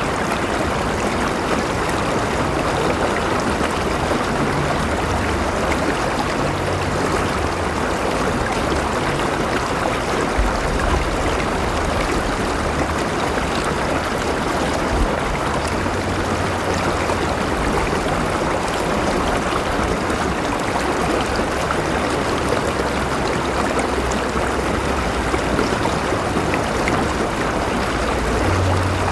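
Steady rushing of a flowing river, water running over rocks.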